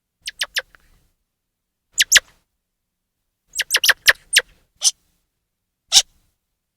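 Grey squirrel giving short, sharp, high chirping calls in clusters with silence between: three quick chirps, then two, then a run of about six, then a single one near the end.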